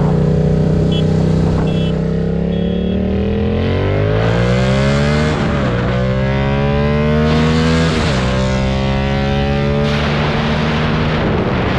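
Yamaha MT-07 parallel-twin engine, steady at first, then accelerating hard from about two seconds in. Its pitch climbs, drops at an upshift about five and a half seconds in, climbs again, drops at a second upshift around eight seconds, then holds fairly steady.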